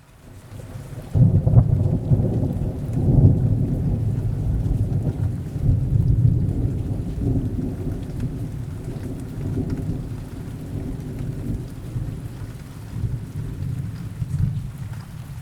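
Steady rain with a long rumble of thunder. The rumble starts about a second in and slowly dies away under the rain.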